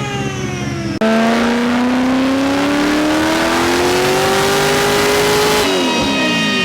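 Supercharged Camaro V8 making a full-throttle dyno pull: about a second in the engine comes on hard and its revs climb steadily, then the throttle is lifted near the end and the revs fall away.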